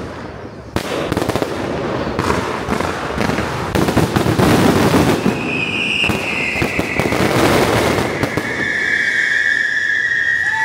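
Fireworks and firecrackers going off in a dense, rapid crackle of bangs, heaviest around the middle. From about halfway a high tone sounds over the crackle, slowly falling in pitch.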